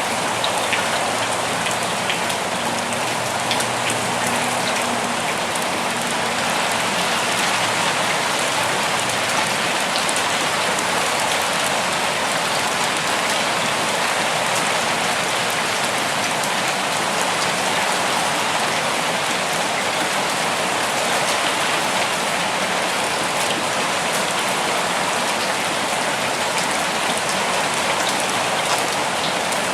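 Steady rain falling, an even, continuous patter with fine individual drop ticks scattered through it.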